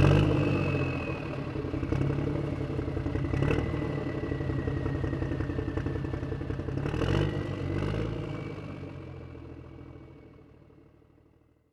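Tractor engine running as the tractor drives along a road, with a clattering mechanical rattle over the drone and a few brief surges. The sound dies away over the last couple of seconds.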